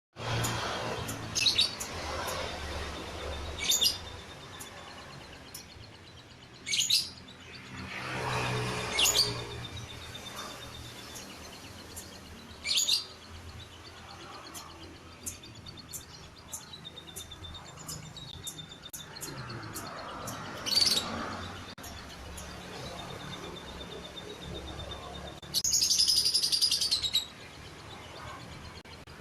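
Lovebird song of the fighter type: short, sharp, high chirps at irregular intervals, a few louder calls, and a rapid high trill about a second and a half long near the end.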